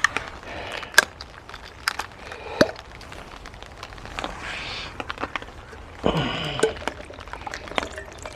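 Heavy rain hissing and dripping, with scattered sharp clicks and knocks and a rustle about six seconds in.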